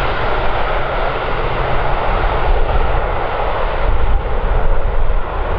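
Airliner jet engines running, a steady loud rush over a low rumble.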